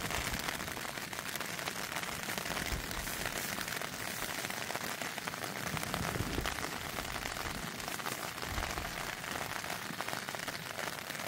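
Steady rain pattering on a tent's fabric, heard from inside the tent.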